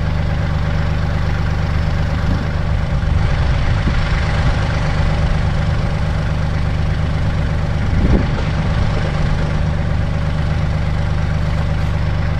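Kubota L3800 compact tractor's diesel engine idling steadily, with a brief knock about eight seconds in.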